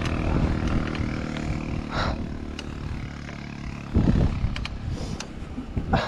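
A motor vehicle's engine running nearby, a steady hum that fades over the first few seconds. About four seconds in, a loud low rumble from wind buffeting the microphone.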